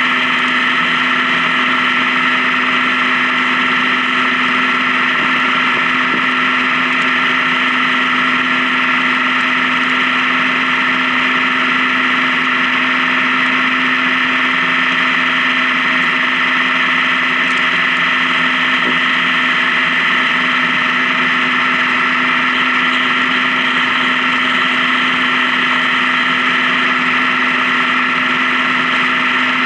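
Honda Gold Wing touring motorcycle cruising at a steady speed on the highway: the engine runs with an unchanging pitch over a constant hiss of wind and road noise.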